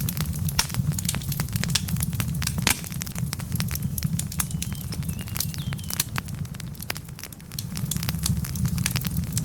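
Wood logs burning in a fireplace: frequent irregular sharp pops and crackles over a steady low rumble of the flames, which eases briefly about seven seconds in.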